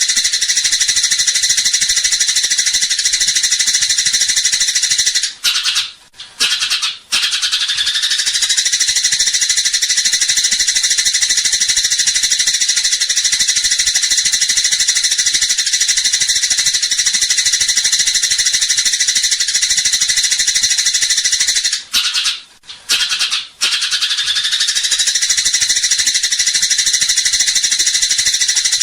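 Eurasian tree sparrows chirping in a loud, dense, rapid chatter, the excited squabbling calls of fighting sparrows. The chatter breaks off briefly twice, about six seconds in and again about twenty-two seconds in, then picks up again.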